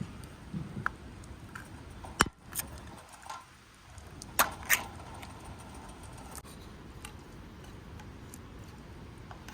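A few sharp clicks and clinks over a steady low background: one a little over two seconds in, then the two loudest close together about halfway through.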